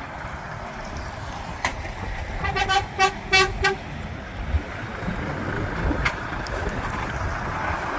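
Truck horn giving a quick string of short toots about two and a half seconds in, over the steady low rumble of diesel engines.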